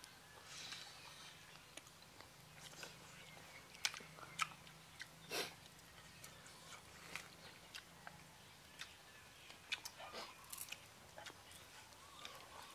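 People chewing and biting into skewered pig intestine: a scatter of short, soft mouth clicks and smacks.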